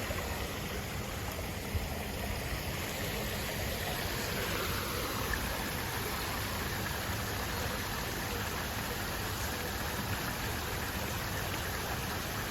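Steady, even rushing noise with no distinct events, like running water or a small waterfall.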